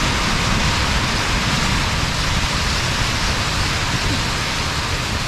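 Steady storm noise heard from inside a Fjallraven Abisko Lite 2 tent: wind and driven snow beating on the flysheet, a loud, even hiss that doesn't let up.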